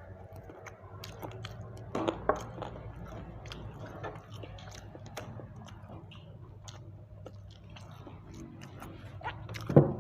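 Close-up chewing and wet mouth noises of a person eating grilled chicken, with many small clicks and two louder short sounds, one about two seconds in and one near the end.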